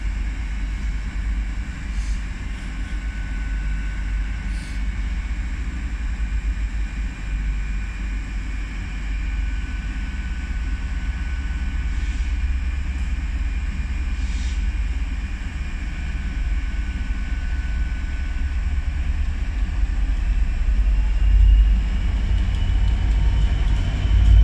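Standing LNER train idling with a steady low rumble and a steady high whine, while a Class 67 diesel locomotive approaches on the next line, growing louder with a rising whine over the last few seconds.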